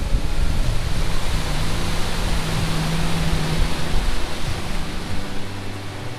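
Outboard motor driving a bass boat at speed: its hum sits under a loud rush of wind and churning wake water. In the last couple of seconds the engine note drops and the rush eases as the boat slows.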